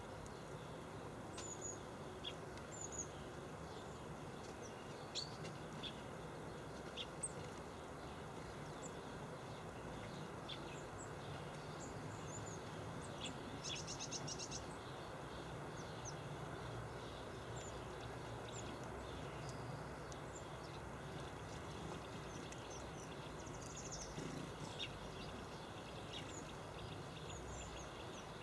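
Small garden birds chirping in short high calls scattered throughout, with a quick rattling trill about halfway through, over a steady background noise.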